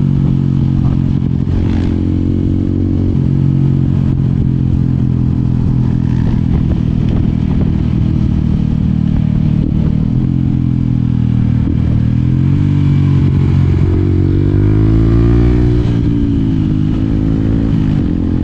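Yamaha WR 125 X's single-cylinder four-stroke engine running. Its note holds fairly steady at first, then rises and falls several times in the second half as the throttle is opened and closed.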